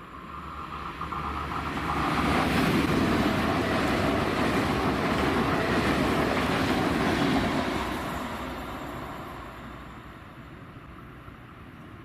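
A train passing close by: the rushing rail and wheel noise swells over about two seconds, stays loud for about six, then fades away.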